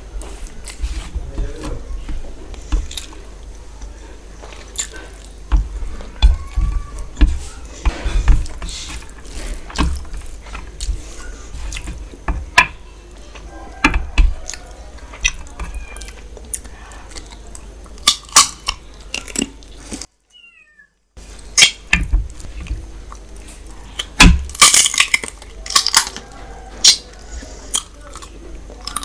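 Close-miked mouth sounds of eating rice and duck curry by hand: wet chewing, lip smacks and squelches of fingers in rice and gravy, coming as many sharp smacks. The sound cuts out for about a second some twenty seconds in.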